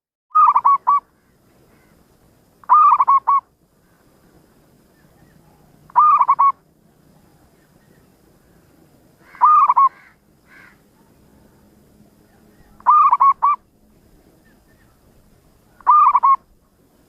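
Zebra dove (perkutut) cooing: six short phrases of quick, stuttering coo notes, repeated about every three seconds.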